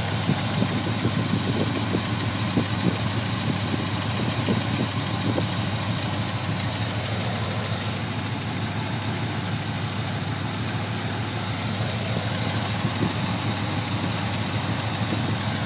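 Oldsmobile 350 V8 idling cold with an intermittent ticking, the ticks bunched in the first few seconds and coming back now and then later. The ticking goes away once the engine is warm; the owner suspects a noisy lifter.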